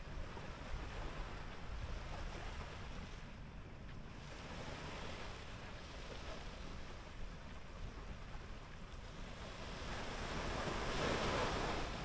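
Surf washing onto a sandy beach, one wave swelling louder and breaking near the end, over a low rumble of wind on the microphone.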